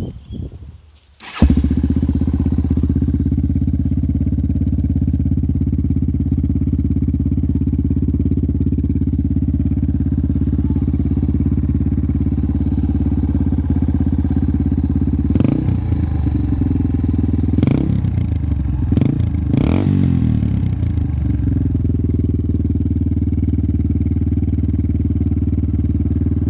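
Yamaha TTR 230's single-cylinder four-stroke engine with an aftermarket Hot Cams camshaft starts about a second and a half in and idles with a lumpy exhaust note. It is blipped several times near the middle, then settles back to idle.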